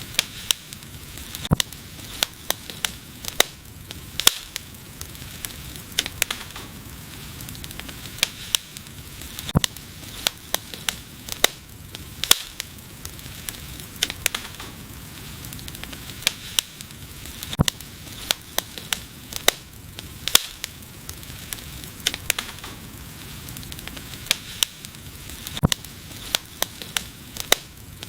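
Wood fire burning, with a steady hiss and frequent sharp, irregular crackles and pops.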